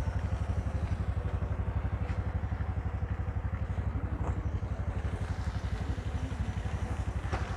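A vehicle's engine running steadily, heard as a fast, even, low throb from on board.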